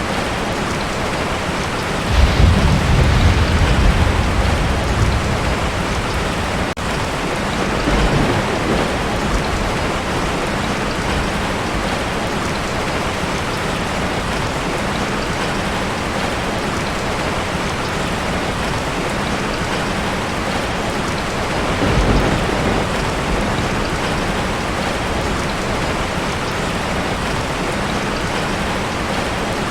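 Heavy rain falling steadily on a tin roof, with rumbles of thunder. The loudest roll comes about two seconds in and lasts a few seconds, a shorter one follows near eight seconds, and another comes about twenty-two seconds in.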